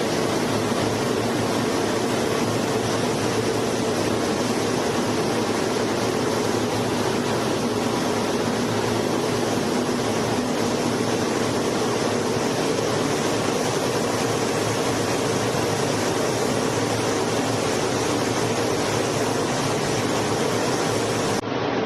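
A-10C Thunderbolt II jet engines: a loud, steady, unchanging rush of engine noise with a low hum beneath it.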